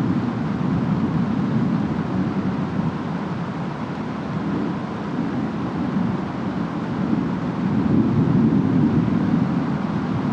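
Distant storm ambience: a steady, low rush of wind and rain, swelling louder about eight seconds in.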